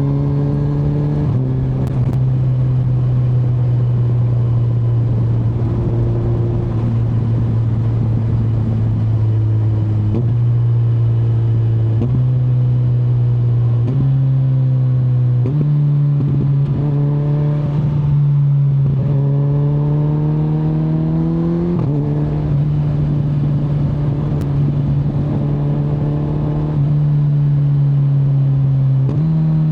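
Kawasaki Z900 inline-four motorcycle engine under way, its pitch shifting in a series of sudden steps as the revs change. About two-thirds of the way through it pulls up steadily in a rising note, then drops abruptly and holds steady, with another step up near the end.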